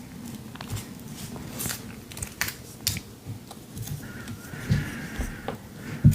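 Paper being handled while it is glued onto a canvas: scattered crisp crinkles and clicks with a few soft taps, and a short stretch of rustling about four seconds in.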